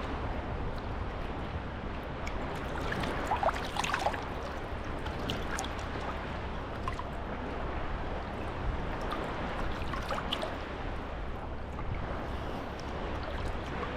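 Small sea waves washing and lapping at the shore: a steady wash broken by light splashes and clicks.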